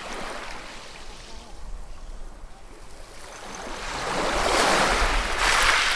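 Ocean waves washing on the shore: a small surge at the start, then a bigger wave builds from about halfway, breaks loudly near the end and begins to recede in a hissing wash.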